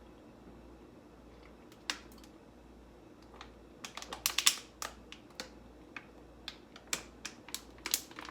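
Irregular sharp clicks and taps of small objects handled close to the microphone at a table. There is a single click about two seconds in, a quick loud run of clicks around the middle, and scattered taps after it.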